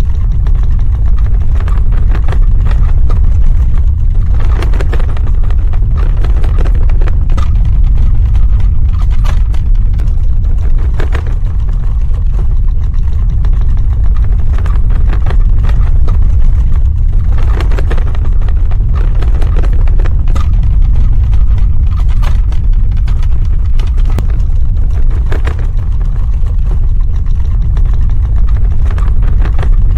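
Earthquake sound effect: a loud, continuous deep rumble with scattered crackles and rattles over it.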